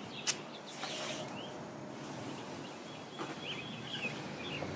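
Birds chirping in short repeated calls over a steady background hum, with one sharp click just after the start.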